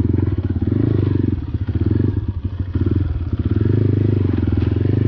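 Motorcycle engine running at low revs, the throttle opened and eased off in several surges.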